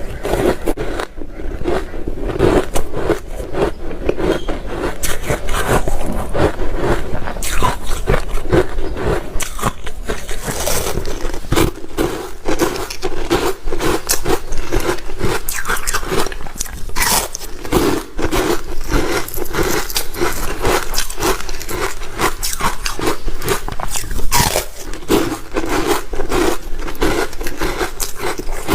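Ice being bitten and chewed, a dense, continuous run of crunching cracks.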